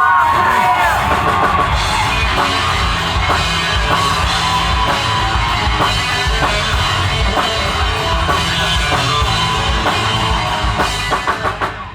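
Live rock band playing loudly, a drum kit and bass driving a steady beat under guitars; the music cuts off at the very end.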